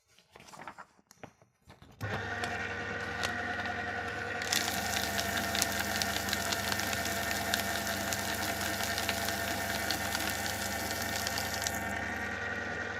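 Electric paper shredder: a few faint rustles, then about two seconds in the motor switches on with a steady hum. From about four and a half seconds a dense crackling of paper being cut rides over the hum, and it stops shortly before the end while the motor keeps running.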